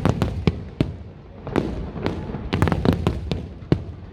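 Fireworks going off in quick, irregular succession: many sharp bangs and crackles over a low rumble, coming in clusters, with a dense run near the start and another around the three-second mark.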